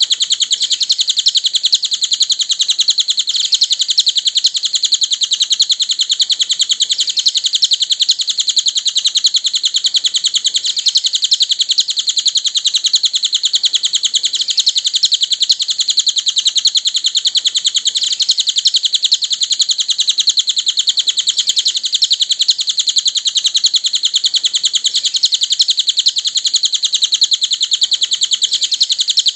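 Cililin bird song: a continuous, very fast stream of high chirps with no pauses, as used for masteran tutoring of songbirds.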